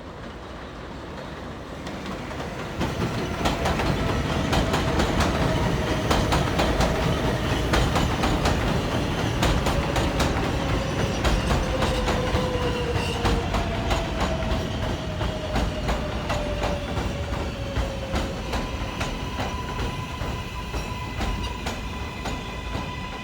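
Kawasaki R188 subway train coming into the station, its wheels clacking over rail joints. A motor whine falls slowly in pitch as it slows, and a few steady higher tones sound in the last few seconds.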